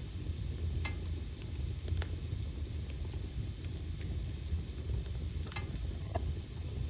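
Wood logs burning in a fireplace: a steady low rumble of the flames with a few sharp crackles and pops scattered through it.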